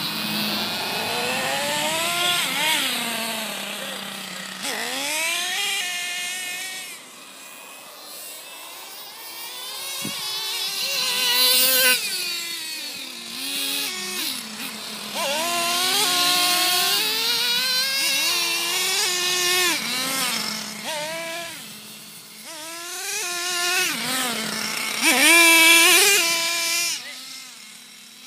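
Losi RC truck's motor whining up and down in pitch as the throttle is repeatedly opened and eased off while it drives about, with a couple of quieter lulls and the loudest burst of speed near the end.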